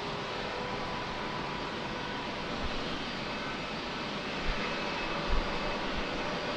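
Jet airliner engines running at a distance: a steady rush with a faint whine. A couple of brief low thumps come in the second half.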